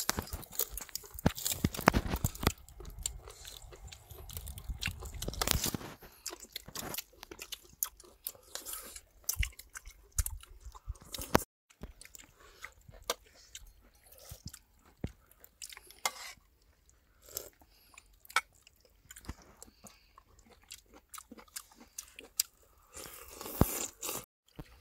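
People chewing and crunching food, with a dense run of sharp crackling clicks.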